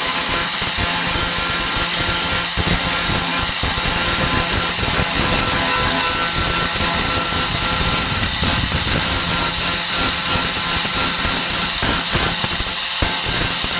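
A 4-1/2 in. angle grinder with a Type 27 grinding disc grinding down flux-core welds on a steel patch panel, running steadily at a constant level throughout.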